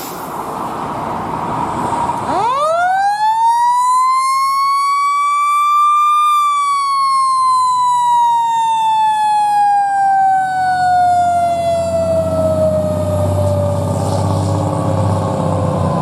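Fire engine's siren winding up, rising steeply in pitch to a peak, then slowly winding down in one long falling tone, in the manner of a mechanical siren coasting down. A low engine rumble comes in over the last few seconds.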